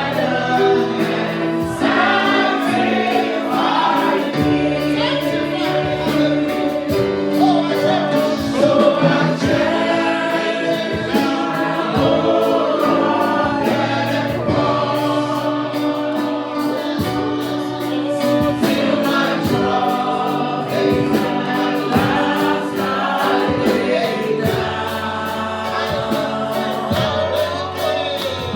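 Gospel praise and worship song: a choir singing over instrumental backing, with a steady beat.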